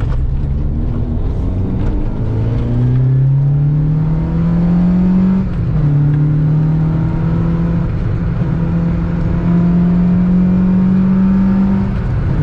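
A VW Golf MK2's 16-valve four-cylinder engine on individual motorcycle carburettors, revving hard at wide-open throttle. The pitch climbs, drops about five and a half seconds in as it shifts up a gear, then climbs again.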